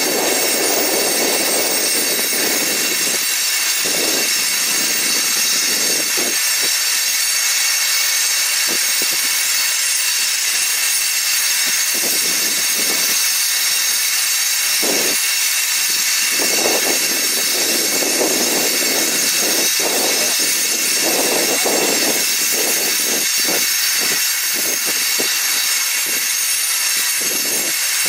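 Freight train of open-top coal hopper cars rolling past, its wheels rumbling and clattering on the rails in irregular surges. A steady high-pitched wheel squeal runs under the rumble.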